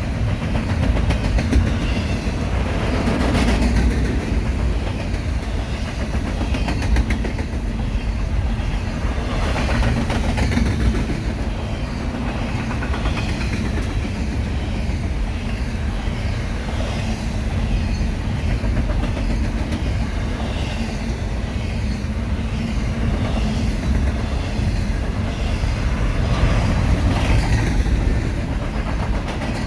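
A BNSF intermodal freight train's cars rolling past, a steady heavy rumble with the clickety-clack of wheels over rail joints and a few brief louder swells.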